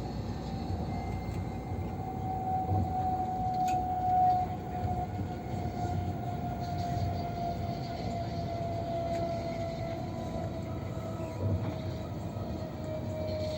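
AVE high-speed train running: a steady low rumble with a thin whine that falls slowly in pitch.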